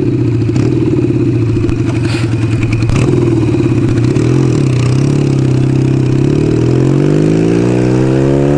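1975 Kawasaki KZ400S parallel-twin motorcycle engine running steadily at low revs for about four seconds, then pulling away, its pitch rising steadily as it accelerates.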